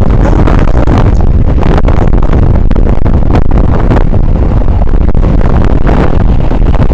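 Heavy wind buffeting on a body-worn camera's microphone while riding an e-bike at speed, a loud steady low rumble with a few short knocks through it.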